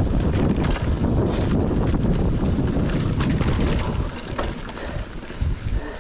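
Wind buffeting a GoPro's microphone on a moving mountain bike, a steady low rumble, with scattered clicks and knocks from the bike rattling over the trail.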